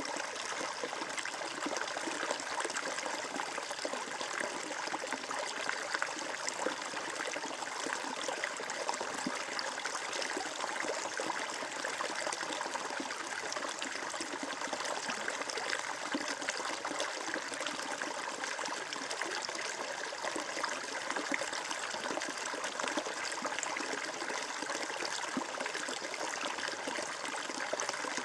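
Stream water flowing and trickling steadily, a continuous bubbling babble with no breaks.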